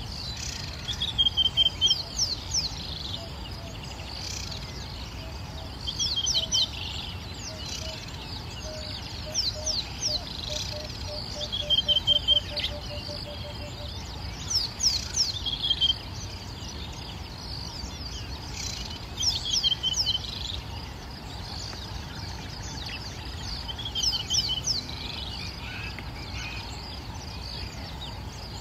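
Birds calling in bush. A short call repeats every few seconds with quick, high, sweeping notes, and between about 6 and 14 seconds in a run of low notes comes faster and faster, dropping slightly. Under it all is a steady low rumble.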